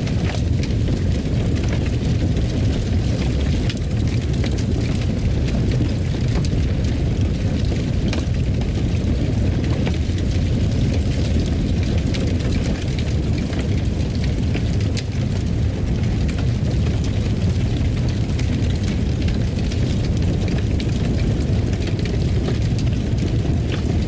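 Fire crackling in a fireplace: a steady low roar with scattered sharp pops and crackles throughout.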